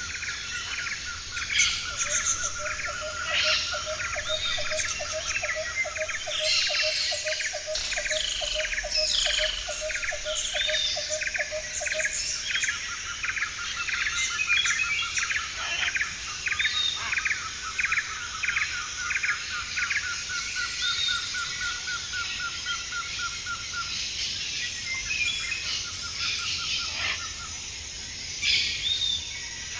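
Several forest birds calling at once: long trains of rapid, evenly repeated notes, with a lower repeated series running for about the first third, over many higher chirps and short whistled notes.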